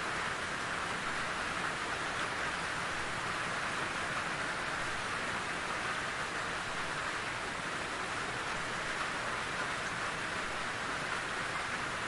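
Steady rain falling: an even, unbroken hiss with no distinct drops or other events standing out.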